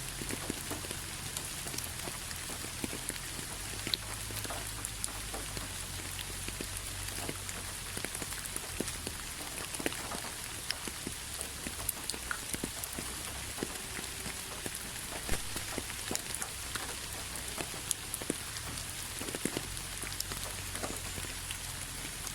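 Steady rain: an even hiss with many separate drops ticking sharply on a hard surface, over a low steady rumble.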